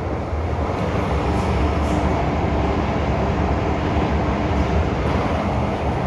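MTR M-Train metro car running steadily between stations, heard from on board: a continuous rumble of wheels on rail and running gear, with faint steady motor tones above it.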